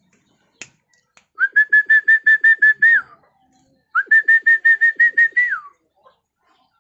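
A pet bird calls in two runs of rapid, evenly spaced whistled notes, about seven a second, each run lasting roughly a second and a half and ending with a note that slides down.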